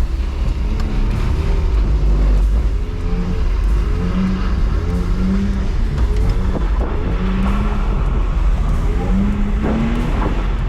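BMW E46 320i's 2.2-litre M54B22 inline-six heard from inside the car, revving up and dropping back several times over a steady low rumble.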